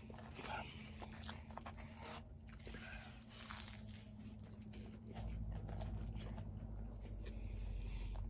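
Faint close-up eating: biting, chewing and light crunching of food, with small mouth clicks. A steady low rumble comes in about five seconds in.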